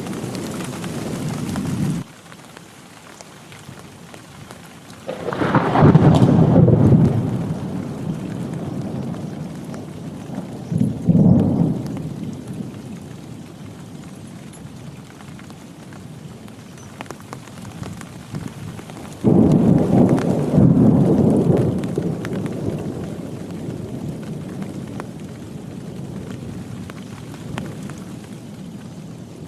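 Heavy rain falling steadily, with thunder rumbling three times: a long roll about five seconds in, a short one around eleven seconds, and another starting near nineteen seconds that fades away slowly.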